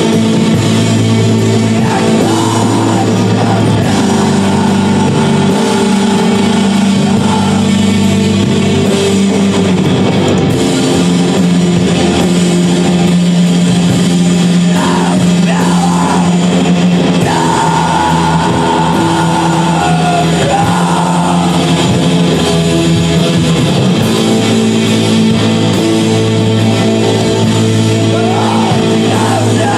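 Rock band playing live: guitar chords and drums, with a singer's voice coming in over parts of the song.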